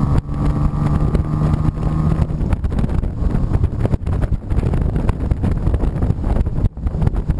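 TVR 3000S's Ford Essex V6 running at a steady engine note while the open-top car is driven, heard from inside the cockpit. About two seconds in the engine tone drops back and low road rumble and wind buffeting the microphone take over.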